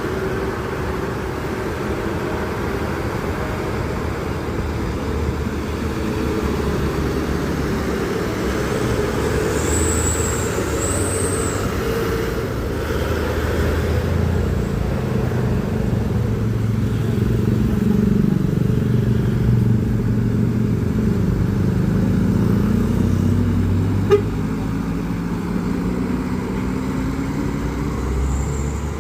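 Passing convoy of trucks, engines running and changing pitch as they go by, with two short high squeals about ten seconds in and a single sharp knock near the end.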